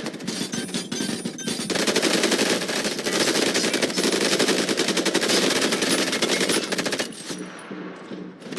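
Sustained rapid automatic gunfire, many shots a second, for about seven seconds, then thinning out and fading near the end.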